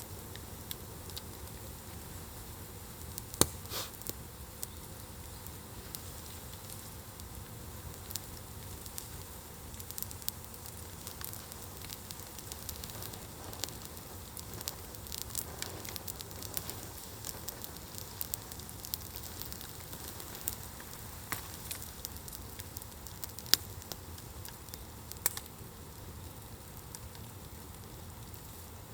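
Wood fire burning on embers, crackling steadily with scattered sharp pops; the loudest pops come about three and a half seconds in and twice near the end.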